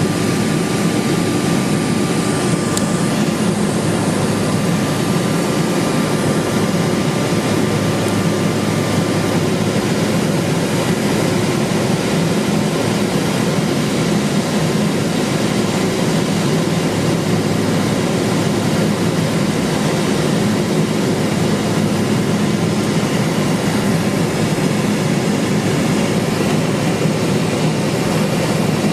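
Steady cabin noise of a Cessna 210 Silver Eagle's single turboprop engine and airflow, heard inside the cockpit. A faint thin steady tone fades out about nine seconds in.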